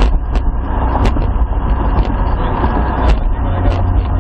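Toyota Supra's engine running on the move, heard from inside the cabin as a steady low rumble, with scattered short clicks or knocks from the car.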